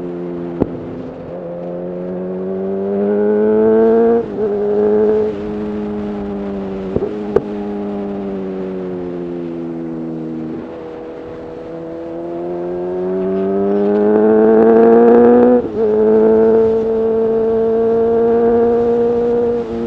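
Honda CB1000R's inline-four through a full Black Widow exhaust, accelerating through the gears. The revs climb, then drop sharply at an upshift about four seconds in. They hold and sag briefly, then climb again to a second upshift near sixteen seconds, where the bike pulls on at higher revs. A few short sharp clicks come near the start and around seven seconds.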